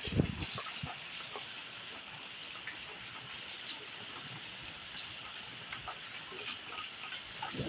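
Steady rain during a thunderstorm: an even hiss with scattered light patters. A short low thump comes just after the start.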